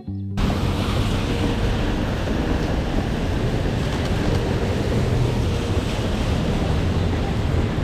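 Steady rush of wind and rain on an action camera's microphone, heavy in the lows, cutting in abruptly just after the start.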